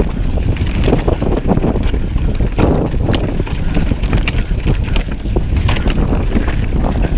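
Strong wind buffeting the microphone in a steady low rumble, over the scattered clicks and rattles of an enduro mountain bike running over rocky trail.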